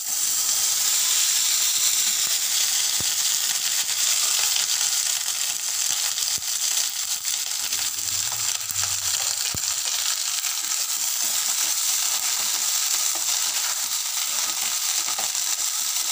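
Shelled green peas frying in hot oil in a kadai, with a steady sizzle. The sizzle jumps up at the start as the peas are tipped into the pan.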